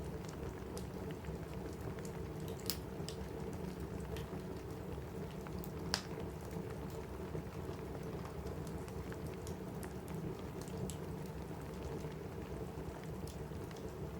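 Steady rain pattering on a cabin roof, with a wood fire crackling and a few sharp pops from the fire; the loudest pop comes about six seconds in.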